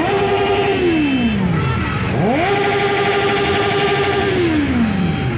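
Motorcycle engine revved twice: each time the pitch climbs quickly, holds high and steady for a second or two, then winds down slowly.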